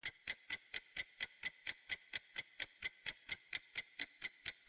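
Ticking clock sound effect used as a quiz timer: quick, even, sharp ticks at about four a second.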